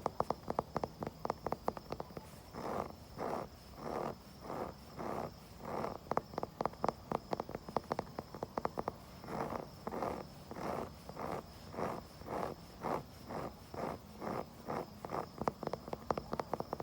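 Wood being tapped and scratched close to a phone microphone. Quick runs of sharp taps alternate with short scratching strokes in a steady back-and-forth rhythm.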